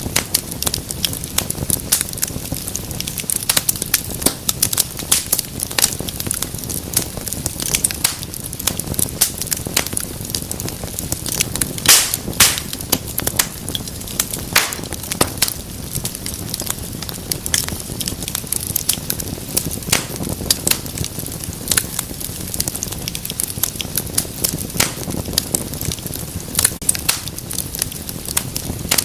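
Wood fire crackling steadily: dense, irregular snaps and pops over a low, steady rumble of burning, with a few louder snaps about twelve and fifteen seconds in.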